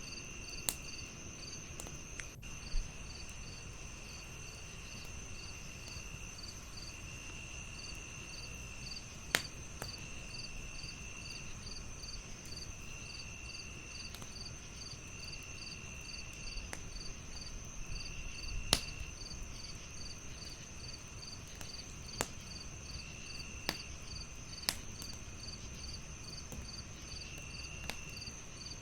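Crickets chirping: a steady high trill, an even chirp about twice a second, and a lower trill that starts and stops in spells of a second or two. A wood fire crackles underneath, with several sharp pops, the loudest a little after nine seconds and just before nineteen seconds.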